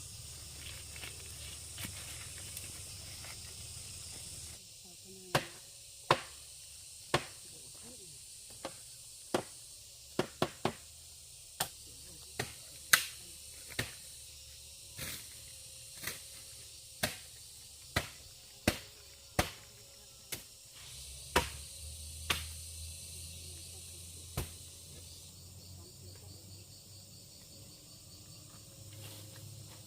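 A run of about twenty sharp single knocks, roughly one a second, starting about five seconds in and stopping a few seconds before the end, over a steady high chirring of insects.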